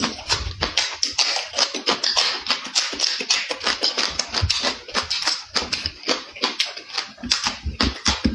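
Close-up eating sounds: rapid wet clicks, smacks and chewing, uneven and almost continuous, with background music underneath.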